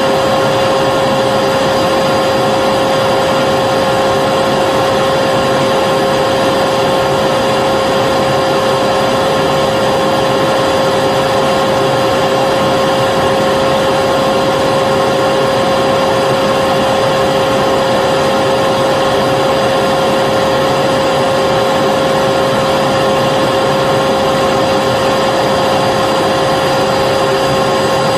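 Vacuum cleaner running steadily, a constant motor whine over the rush of air, with no change in speed or pitch.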